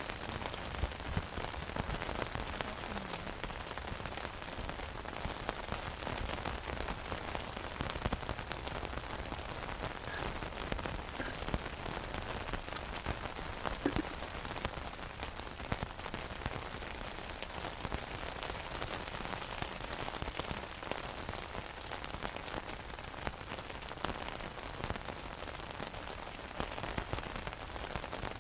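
Steady rain falling, with many small separate drop hits over an even hiss.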